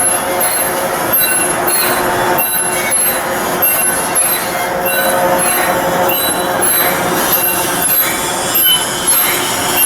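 Continuous high-pitched metallic squealing and scraping, with many short shrill tones over a steady din: steel being worked on a ship under construction.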